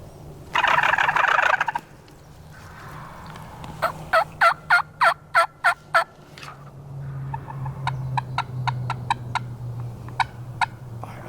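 Wild turkey gobbling once, a loud rattling call, followed by two runs of short repeated turkey yelps, the first loud and the second softer. A steady low hum lies underneath.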